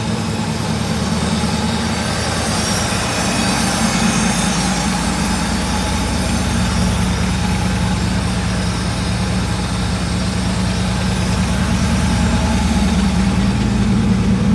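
Mercedes-Benz 6.9's 6.9-litre V8 idling steadily, a little high, not yet fully warm after a cold start.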